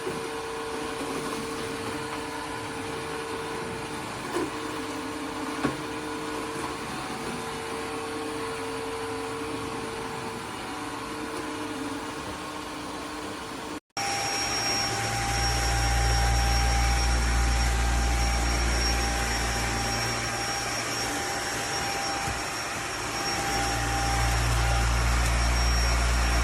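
Eureka cordless wet-dry hard-floor vacuum running steadily with a motor whine. An abrupt cut comes about halfway through; after it the vacuum runs with a higher whine, and a deep rumble swells in and drops away twice.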